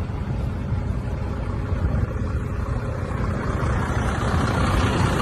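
A motor vehicle's engine and road noise, a steady low rumble with a hiss that swells toward the end.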